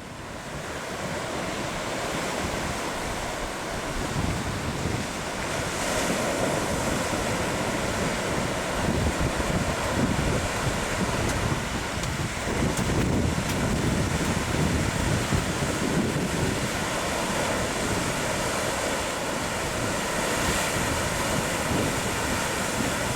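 Ocean surf breaking in a steady wash, with wind buffeting the microphone.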